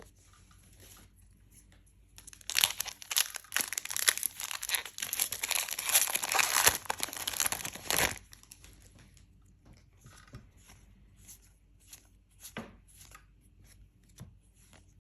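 A trading-card booster pack's foil wrapper being torn open and crinkled for about six seconds, starting about two seconds in. Light taps and clicks of the cards being handled follow.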